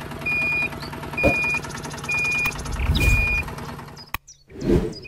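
A reversing-style beeper sounds a steady high beep about once a second, over the hum and rapid clicking of a small motor. The beeping stops after about three and a half seconds, and a dull thump follows near the end.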